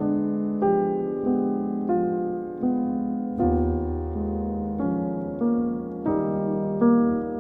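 Solo piano playing a slow, gentle piece, a new chord or note struck about every two-thirds of a second, with a deep bass note entering midway.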